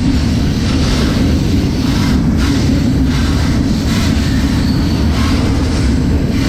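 Freight train running: a loud, steady rumble and rattle of the rail cars on the track.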